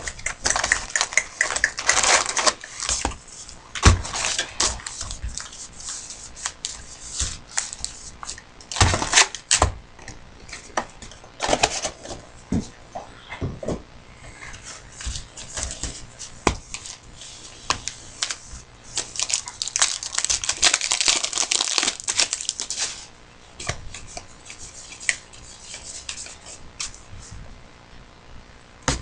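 Trading-card packs being torn open and their wrappers crinkled and crumpled, with cards handled and shuffled: scattered clicks and rustles and a few longer stretches of tearing and crinkling, notably near the start and from about two-thirds of the way in.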